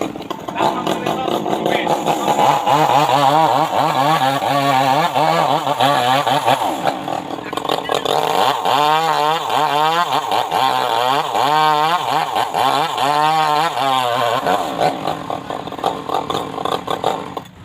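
Chainsaw running, its pitch rising and falling again and again as it is revved and loaded in the cut.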